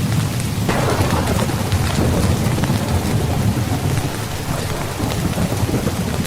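Steady heavy rain, with a thunder crack about a second in that rumbles off over the next few seconds.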